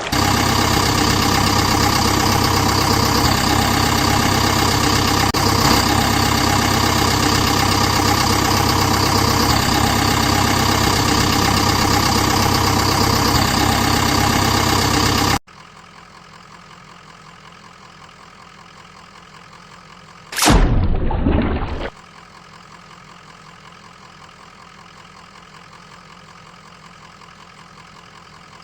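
Vehicle engine running steadily, cutting off abruptly about fifteen seconds in and giving way to a much quieter engine idle. A brief loud sweeping whoosh comes about twenty seconds in.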